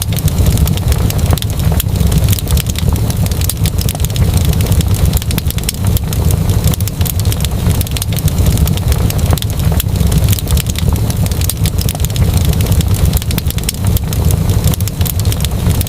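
Wood fire crackling, with many sharp pops and snaps over a steady low rumble.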